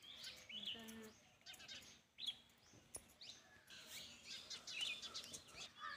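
Birds chirping faintly in many short repeated calls, with one brief word spoken just under a second in.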